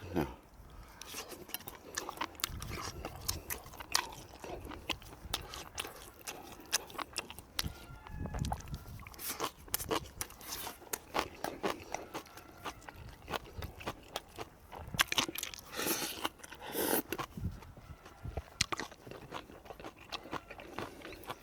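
Close-miked eating: a person chewing and crunching food with wet mouth clicks, a run of short crackly bites that gets busier for a couple of seconds past the middle.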